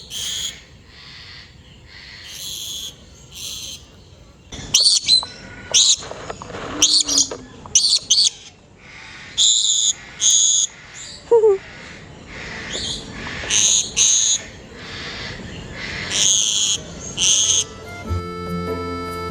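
Birds calling in an aviary: a long string of short, loud, high-pitched calls and squawks, about one every half second to a second, some overlapping, with one call sliding down in pitch about halfway through.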